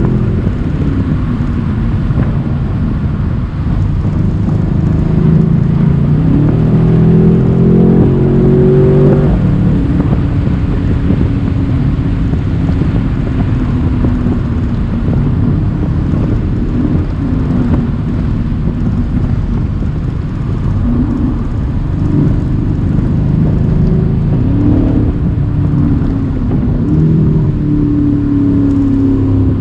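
Mercedes-AMG C63 cabriolet's 4.0-litre twin-turbo V8 under brisk driving, the engine note climbing about six seconds in and then rising and falling repeatedly as the revs change. Road and wind noise from the open roof run underneath.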